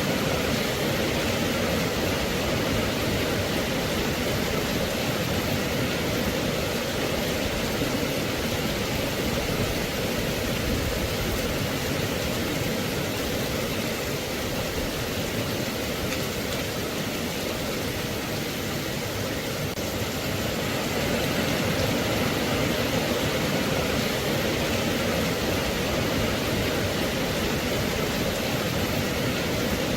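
Steady, even rain noise: a dense hiss of falling rain with no separate drops or thunder standing out.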